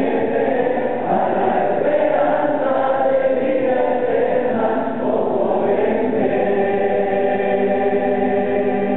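A large group of voices singing a Spanish gospel hymn together, like a congregation or choir, with long held notes.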